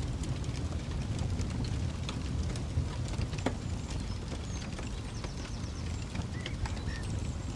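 Campfire crackling: scattered pops and snaps, one sharper snap about halfway through, over a steady low rumble. A few faint high chirps come in near the end.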